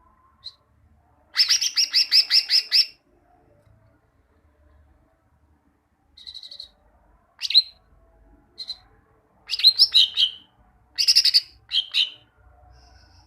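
Green leafbird (cucak ijo) singing: a fast run of about eight sharp repeated notes near the start, then shorter chirps and clipped phrases in quick bursts through the rest.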